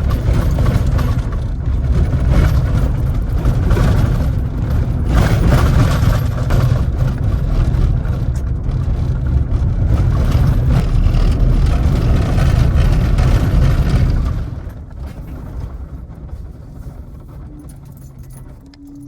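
2010 Ford Ranger pickup with a 4.0-litre V6 driving on a bumpy dirt road: a loud low rumble of engine and tyres with rattling. It drops off sharply about fourteen seconds in, leaving a quieter low hum.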